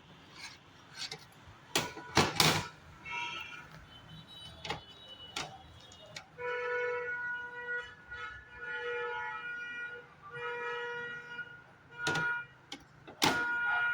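Sharp clicks and knocks of hard-disk cable connectors being handled and plugged in, several close together early on and another near the end. From about the middle a horn-like tone of several pitches sounds in short stretches, about every two seconds.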